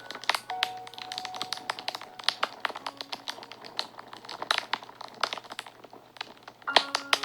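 Fire crackling and popping in quick, irregular snaps, with a few soft held notes of background music.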